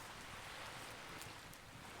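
Campfire burning: a steady hiss with a few faint crackles.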